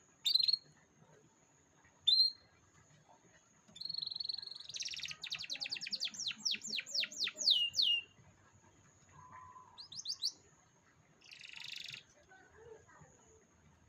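Canary singing: two short chirps, then a long trill of rapid falling notes, a few quick sweeps and a buzzy phrase near the end. A faint steady high tone runs underneath.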